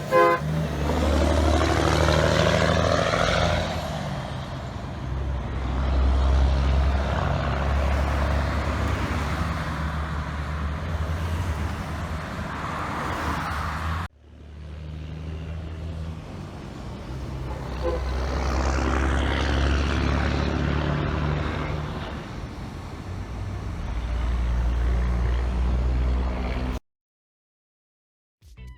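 Straight-piped diesel engine of a black 1980s Western Star 4964 truck, a deep exhaust rumble with shifting pitch as it goes by. Two separate pass-bys, joined by a sudden cut about halfway through.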